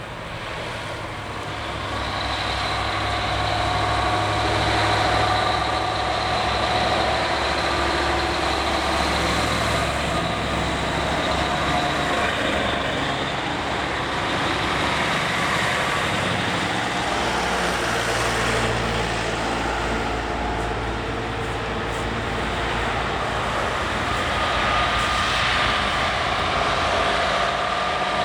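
Vintage Krupp truck engine running, growing louder over the first few seconds and then holding steady.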